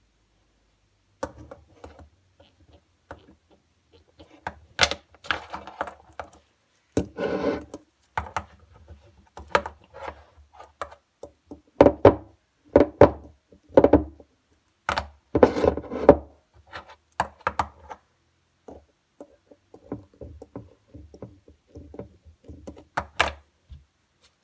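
Irregular knocks and clattering thuds, some in quick clusters, with short gaps between.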